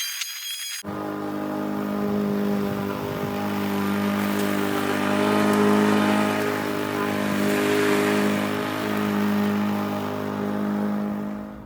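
Lawn mower engine running steadily, its level rising and falling every couple of seconds.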